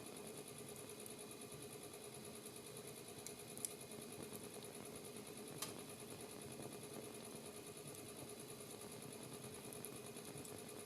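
Fireplace fire crackling faintly: a few sharp pops, the clearest about three and a half and five and a half seconds in, over a steady machine-like hum.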